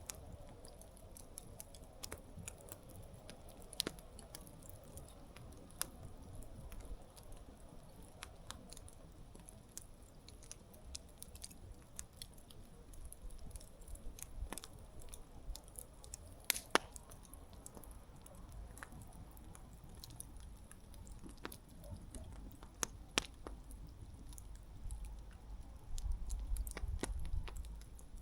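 Wood campfire burning, with irregular crackles and sharp pops from the burning wood over a soft background hiss, and a few louder pops. A low rumble comes in near the end.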